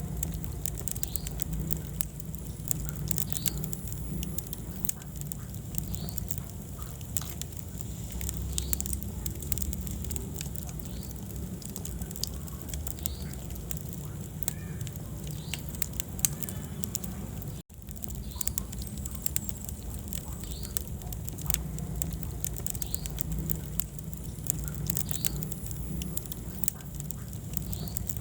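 Wood fire crackling in a fireplace: many small sharp pops and snaps over a steady low rumble of flames. The sound cuts out for an instant a little past halfway.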